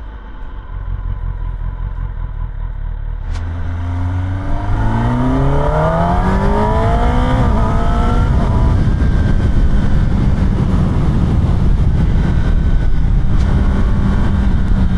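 Kawasaki ZX-10R inline-four engine, still on its stock exhaust, idling low, then with a click a little over three seconds in it pulls away, revs climbing with a short dip at a gear change, and settles into a steady note at riding speed.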